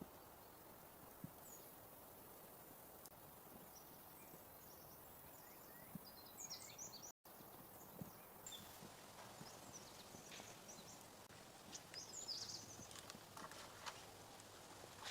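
Near silence: a faint steady hiss with scattered faint clicks and crunches, a few of them clustered about halfway through and again near the end.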